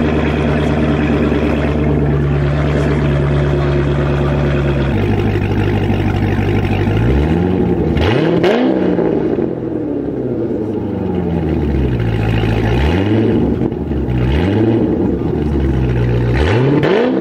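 A sports car engine idling with a steady note, then revved in a series of quick throttle blips, each rising and falling in pitch, several clustered together about seven to nine seconds in and more near the end.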